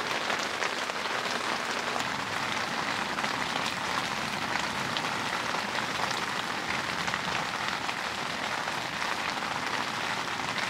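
Rain falling steadily on a tent: an even hiss dotted with many small drop taps.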